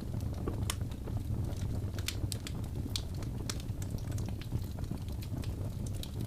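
Wood fire crackling: a steady low rumble with irregular sharp pops and snaps of burning logs.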